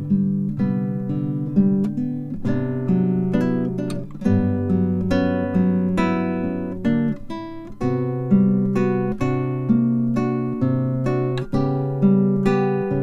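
Instrumental acoustic guitar music: chords plucked and strummed at an even, unhurried pace, each ringing and fading before the next.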